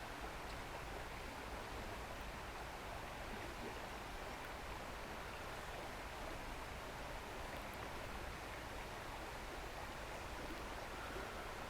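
Steady rush of a shallow river's flowing water, an even hiss with no distinct events.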